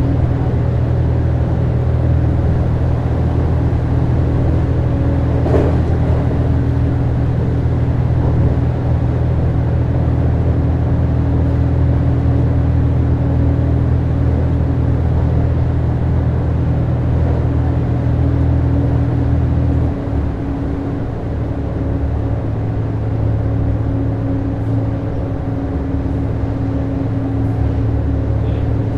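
HB-E210 series hybrid train's Komatsu DMF15HZB-G diesel engine and running gear, heard inside the car: a steady engine drone with the rumble of the train in motion. About two-thirds through, the deepest part of the drone drops away and the sound becomes a little quieter, and there is a single brief knock about six seconds in.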